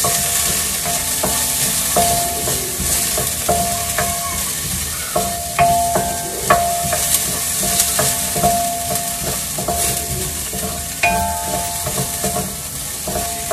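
Garlic and ginger sizzling in hot oil in a stainless steel pan, stirred with a wooden spatula. The spatula knocks and scrapes against the pan many times, and the pan rings briefly after many of the knocks.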